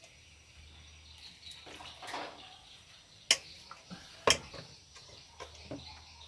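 Two sharp clicks or knocks about a second apart, with a few lighter ticks after them, over faint steady chirping of insects and birds.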